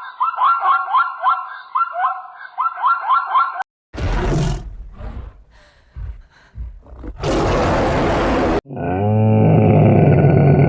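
A sequence of different animal calls. First comes a quick run of repeated rising high-pitched calls, about four a second. After a short break there are loud, rough, noisy calls lasting several seconds, and the clip ends with a low, drawn-out pitched call.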